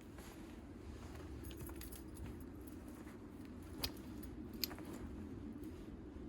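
Light metal objects clinking a few times, with two sharper clinks about four seconds in, over steady low background noise.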